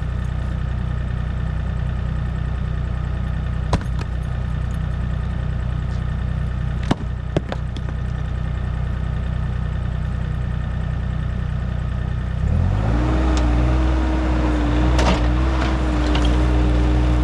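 Diesel engine of heavy digging equipment running steadily at idle, then revving up about twelve seconds in, when a steady whine joins it. A few sharp metallic clanks come through, one near the end.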